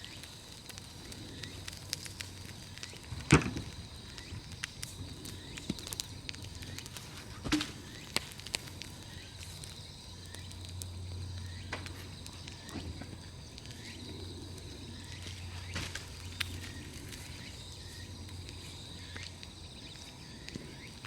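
Large wood bonfire crackling, with irregular sharp pops and snaps; the loudest pop comes about three seconds in.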